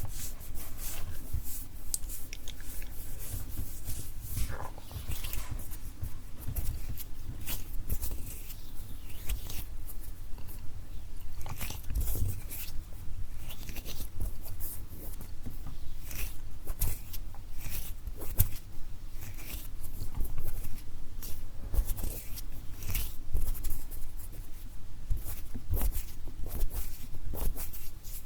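ASMR hand sounds close to the microphone: hands and fingers moving and rubbing, giving a continuous stream of small crackles and clicks.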